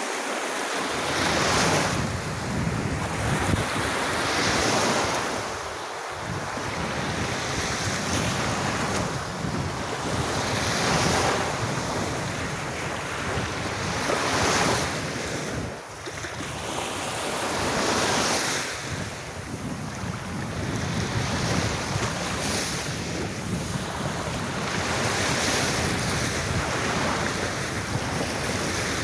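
Sea waves washing onto a beach, swelling and easing every few seconds, with wind buffeting the microphone.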